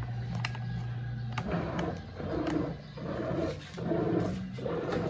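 Brastemp Eggo 1 kg mini washing machine starting its wash cycle: a steady low hum, then from about a second and a half in, a pulsing churn that repeats roughly once a second with short pauses, as the agitator works back and forth.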